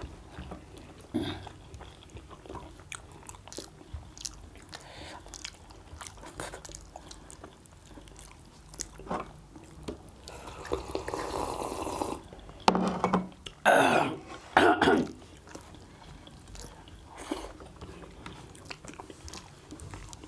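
Close-miked chewing and mouth sounds of a person eating quail meat with rice: a run of small wet clicks and smacks, with a few louder noisy bursts about two-thirds of the way through.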